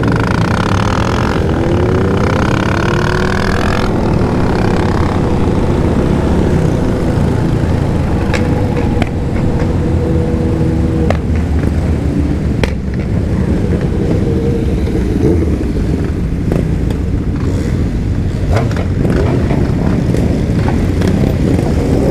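Motorcycle engine running while riding, heard over heavy wind rumble on the microphone, with the engine pitch rising and falling in the first few seconds and then holding steady.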